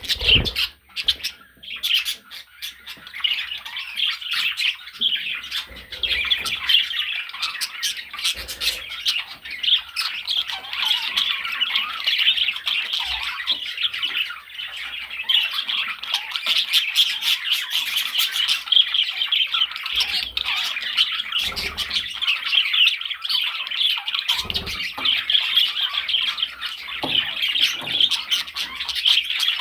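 Budgerigar chattering: a continuous fast warble of chirps and squawks with many short clicks mixed in.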